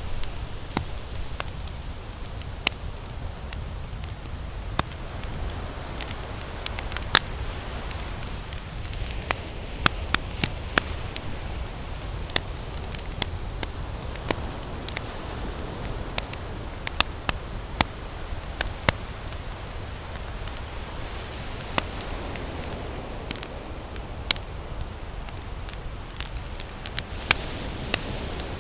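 Campfire crackling, with irregular sharp pops and snaps over a steady low background rush.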